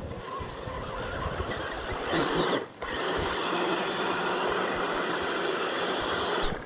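Electric motor of an RC mud truck whining at high speed. It starts about two seconds in, drops out for a moment, then runs steady until it cuts off near the end.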